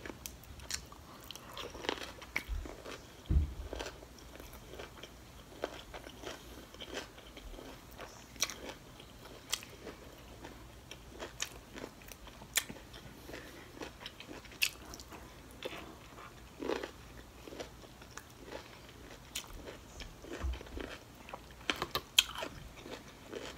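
Close-miked chewing and biting of shrimp and broccoli: crunching and wet mouth clicks, scattered irregularly. A dull thump about three seconds in is the loudest sound.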